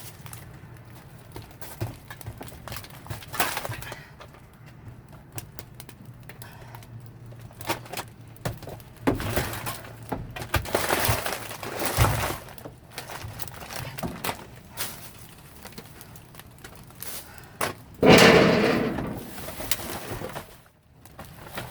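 Rummaging through wet boxes and goods in a dumpster, with scattered knocks and rustles. About eighteen seconds in comes a loud creak of about two seconds from a door that is really noisy.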